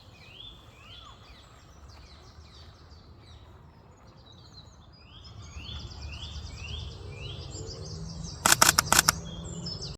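A bird calling outdoors, a series of short rising notes repeated less than a second apart, with other faint chirps and a low rumble behind. Near the end comes a quick burst of loud knocks.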